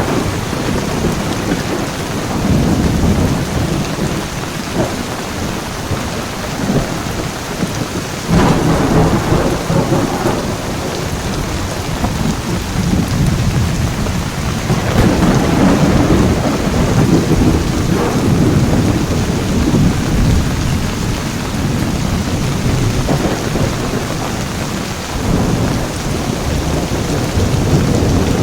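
Heavy rain falling steadily under a thunderstorm, with rolling thunder rumbling low through it. A sudden louder thunderclap comes about eight seconds in, and more rumbles swell around fifteen and twenty-five seconds.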